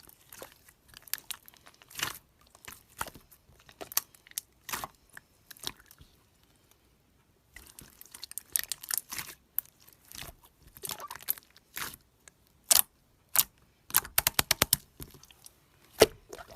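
Slime being squeezed and poked by hand, giving scattered wet crackles and pops. It pauses for about a second and a half in the middle, and there is a quick run of clicks near the end.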